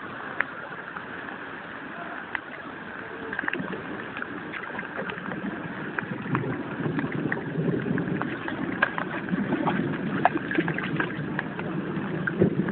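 Torrential rain and floodwater: a steady wash of water sprinkled with many sharp drips and splashes, growing fuller and louder about six seconds in.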